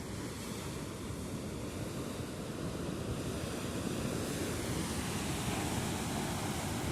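Steady rush of wind on the microphone over a surf-like wash of water, growing slightly louder.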